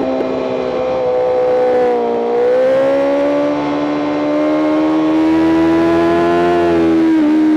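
BMW M 1000 RR's inline-four engine at high revs, heard onboard the bike on track. The engine note sags a little about two seconds in, then climbs slowly and steadily, with a brief break near the end.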